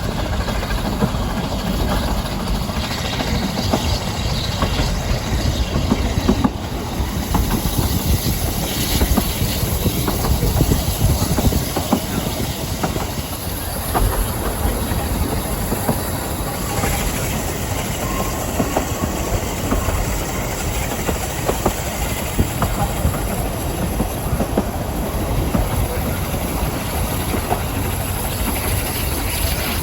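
Ffestiniog Railway narrow-gauge train running along the track: a steady rumble with wheels clicking over the rail joints.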